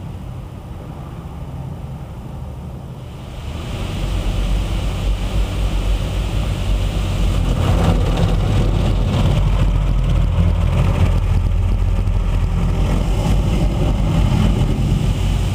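Automatic car wash machinery running, heard from inside the car: a steady low rumble with a spraying hiss. It swells about three to four seconds in, then holds steady.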